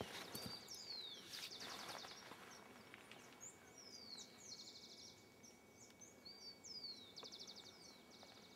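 Faint songbird song over quiet outdoor background: the same phrase three times, about three seconds apart, each a slurred whistle sweeping down and then a fast trill.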